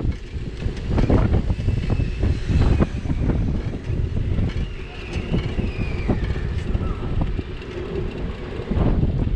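Low rumble of wind and road vibration on a bike-mounted GoPro's microphone while cycling, with frequent clicks and knocks of the bicycle rattling over the street.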